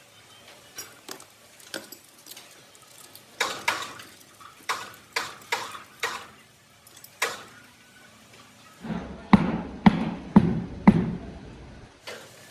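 Irregular metal knocks and clanks from work on steel lathe parts, then four heavy hammer-like strikes about half a second apart near the end.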